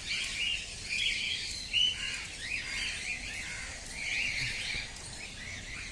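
A flock of small birds chirping and calling together, many short overlapping chirps in a steady chatter.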